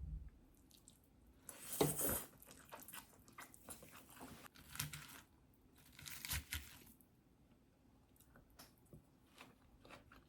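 Crunching and crinkling handling noises in three short bursts, then scattered light taps and clicks.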